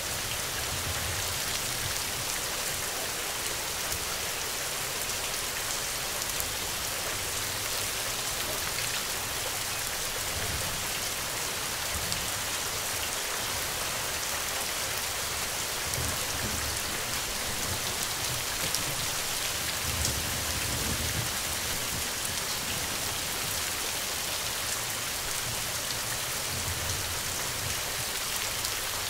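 Steady rain falling, an even hiss of many drops, with a low rumble that comes and goes underneath.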